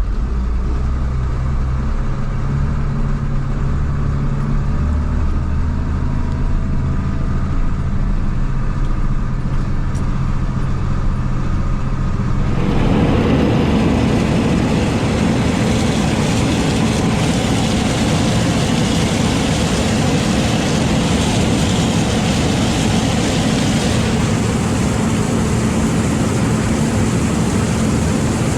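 Farm vehicle engine running steadily with a low hum; about twelve seconds in, the sound switches abruptly to a louder, rushing machine drone that carries on.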